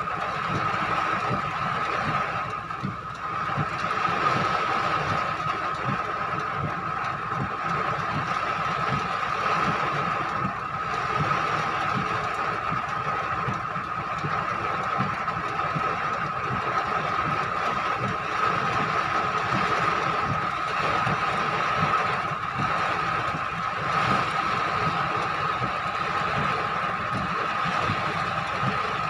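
Storm wind and rain: a steady rushing hiss with flickering low gusty rumble, over a steady high hum.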